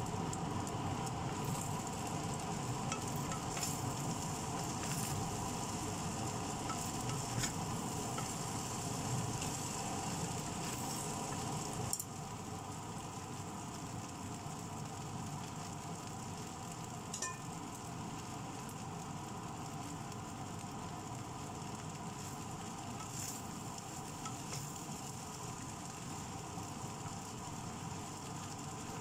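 Fried rice sizzling in a wok while a wooden spatula stirs and turns it, with occasional clicks of the spatula against the pan. The sizzle drops a little quieter about twelve seconds in.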